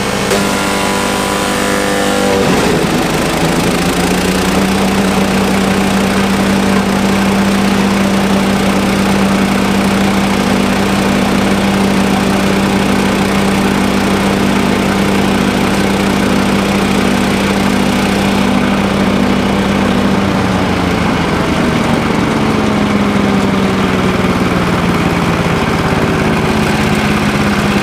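Yardbeast 2090 wood chipper-shredder's gasoline engine running under load as rolled-up cardboard is fed in. Its pitch sags and recovers in the first few seconds, holds steady, then drops again about twenty seconds in as the cardboard nearly bogs the shredder down.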